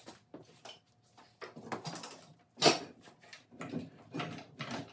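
A run of irregular knocks and clunks from a VW air-cooled engine being rocked and pushed onto its transaxle, with one sharp, loudest knock about midway. The engine will not go all the way in: its 12-volt flywheel is too big for the 6-volt transaxle's housing.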